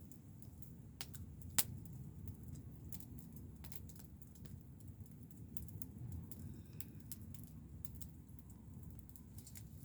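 Wood fire crackling, with irregular sharp pops and one louder pop about one and a half seconds in, over a low steady rumble.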